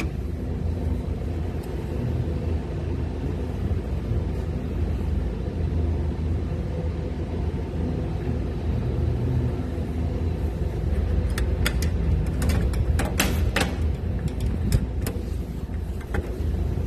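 Steady low rumble and hum of a running precision air-conditioning unit. A scattering of sharp clicks and knocks comes in the last few seconds.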